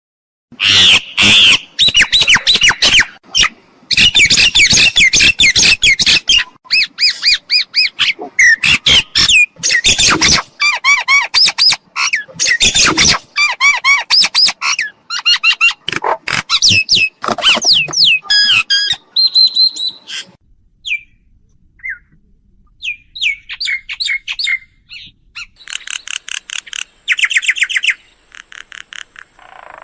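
Mynas calling: a dense run of loud, varied squawks, chatters and whistles for about twenty seconds, then sparser whistles and quick runs of repeated notes near the end.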